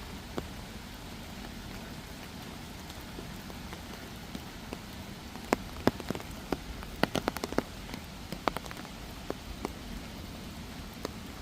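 Steady rain falling, with scattered sharp ticks of drops landing close by, most of them bunched in the middle.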